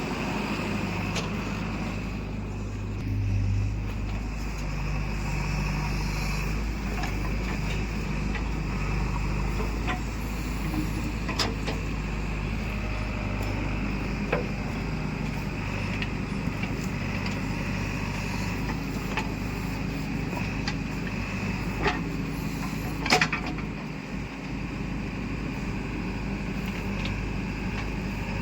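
Heavy diesel engine of earth-moving machinery running steadily at low speed, with a few sharp knocks, the loudest about 23 seconds in.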